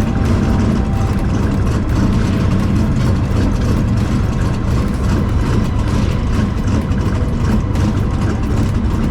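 Car engine idling steadily with a loud low rumble.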